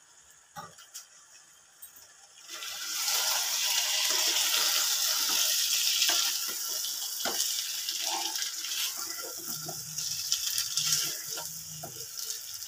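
Chicken pieces frying in butter and masala in a pan, stirred with a wooden spatula: a few light scrapes, then a loud sizzle that rises sharply about two and a half seconds in and keeps going, with spatula scrapes and knocks against the pan.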